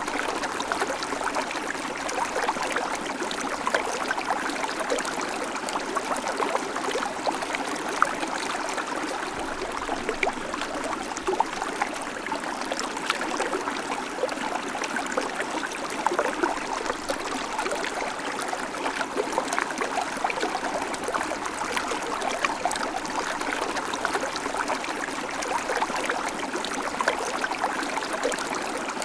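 Babbling creek: a small stream of water running and trickling steadily over stones, with many small splashes and gurgles.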